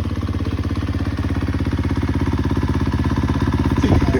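Single-cylinder dirt bike engine idling steadily, its rapid even firing pulses running throughout. A short rise and fall in pitch comes near the end.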